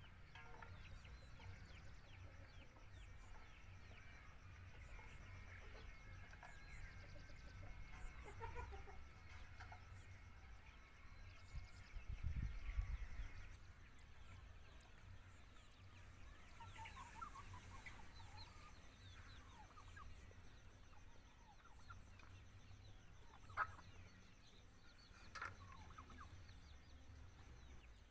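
Chickens clucking faintly, with scattered short calls throughout and two sharper calls near the end. A brief low rumble comes about halfway through.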